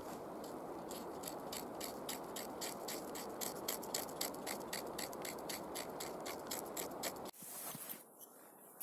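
Rhythmic scraping with quick, even strokes, about five a second, over a steady rasp; it stops abruptly about seven seconds in.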